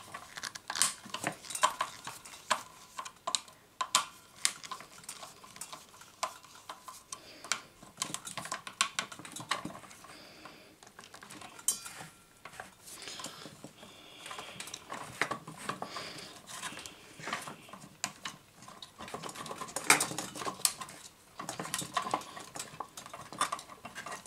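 Hand tools and small metal parts of a miter saw clinking, clicking and scraping at an irregular pace during disassembly, with a cluster of sharper knocks about twenty seconds in.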